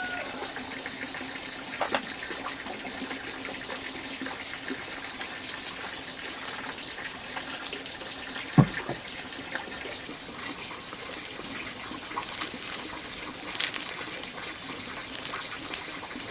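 Water running steadily, with small clicks and one loud thump about eight and a half seconds in.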